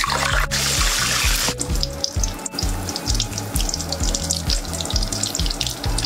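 Sausages sizzling and crackling as they deep-fry in hot oil in a wok, with background music and a steady beat underneath.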